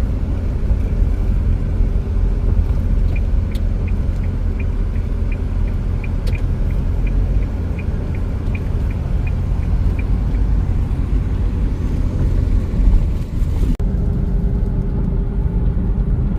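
Steady road and engine rumble inside a moving car's cabin. From about three seconds in to about ten seconds, a light, rapid, even ticking of about three ticks a second runs over it.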